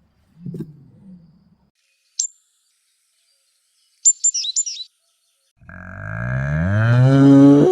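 Animal calls: a faint low growl, a single high bird chirp, then a quick run of four or five high bird chirps. Near the end comes the loudest sound, a long, low animal call that rises in pitch.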